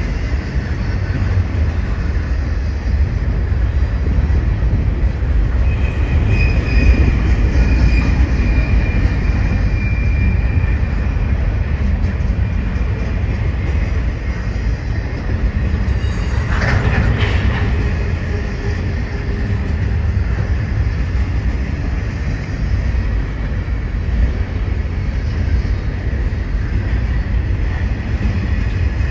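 Freight train of double-stack intermodal well cars rolling steadily past, its wheels giving a continuous low rumble on the rails. A thin wheel squeal comes in about six seconds in and holds for several seconds, and a brief sharp screech comes just past the middle.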